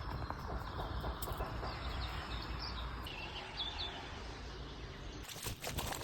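Birds calling, with a few short high chirps in the middle, over a steady low background rumble.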